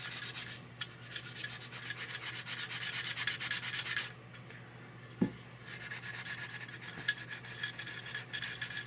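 Old shoe-polish applicator brush scrubbing in quick back-and-forth strokes over the Marx 666 toy locomotive's body, working dried polish into Sharpie marks to blend them to black. The scrubbing stops for about a second and a half midway, with a small knock, then resumes.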